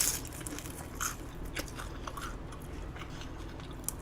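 Close-miked chewing of food: a run of short wet clicks and mouth smacks, with a louder bite right at the start. The food is soft, softer than the eater expected.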